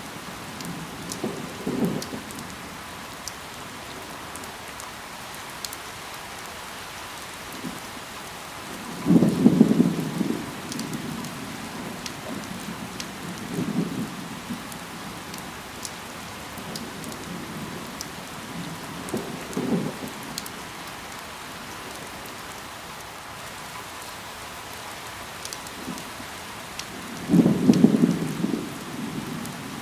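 Steady rain falling on leaves, with scattered sharp drop ticks. Five short, louder low thuds stand out at irregular intervals; the strongest come about nine seconds in and near the end.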